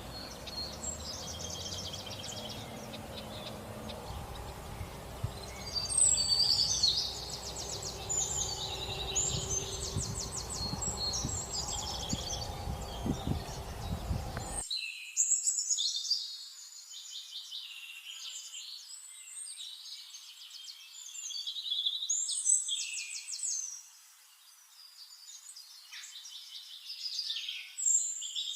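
Several songbirds chirping and singing fast trills. Beneath them is a low, even rushing background that cuts out abruptly about halfway, leaving only the birdsong.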